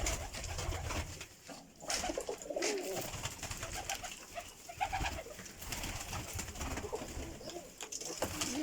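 Domestic pigeons cooing, repeated calls overlapping throughout, over a low rumble.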